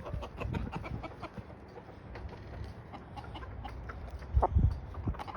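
Backyard chickens clucking, with scattered short clicks, as the flock squabbles over a dead mouse. A few low thumps come about four and a half seconds in.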